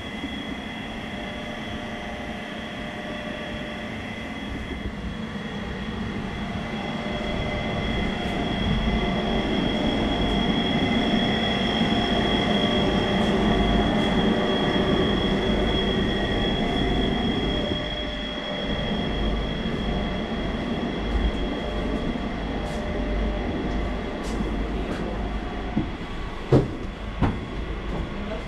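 Inside a FEVE narrow-gauge commuter train getting under way: a steady high whine over the rumble of wheels on rail. The rumble swells over the first half, as the train gathers speed, then eases off. Two sharp knocks come near the end.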